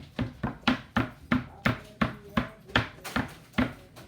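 A steady run of sharp taps or slaps, about three a second, each one short and quickly dying away.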